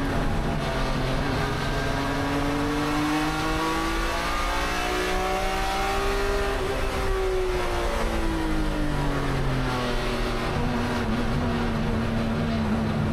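Race car's inline-six engine, a 1993 BMW M3 E36 GTR, running hard: its note climbs steadily for about six seconds, falls away over the next few, then holds steady near the end.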